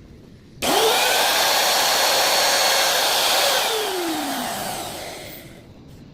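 Electric wood router switched on, spinning up quickly and running steadily for about three seconds, then switched off and winding down to a stop.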